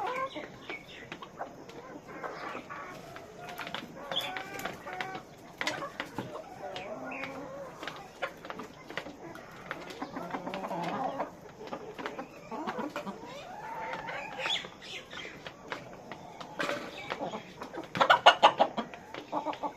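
A flock of farm hens clucking continually, many short overlapping calls, with a louder burst of rapid sounds near the end.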